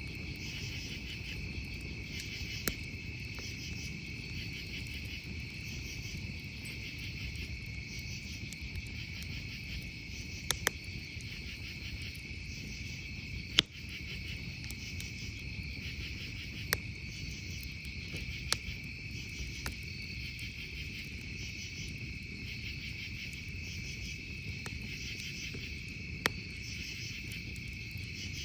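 A steady, softly pulsing chorus of crickets or other night insects, with a campfire crackling underneath and popping sharply now and then, the loudest pop about halfway through.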